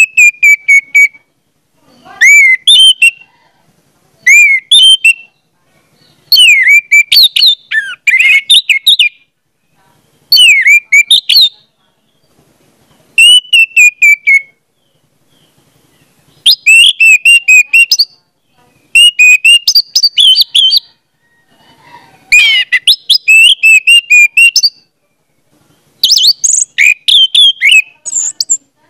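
A bird singing in loud phrases of high whistled and chirping notes, each phrase a second or two long, with short pauses between them.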